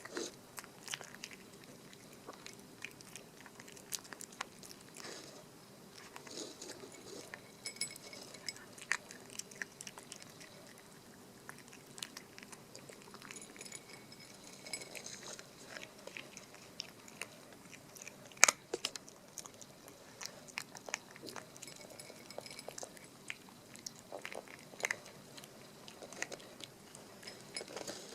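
Chihuahua puppy crunching dry kibble, a steady run of sharp irregular crunches and clicks as it bites and chews, one louder crunch about two-thirds of the way through.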